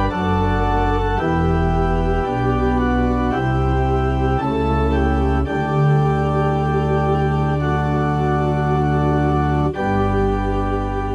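Organ playing slow, sustained chords that change about once a second, with one long held chord in the middle; the sound begins to fade near the end.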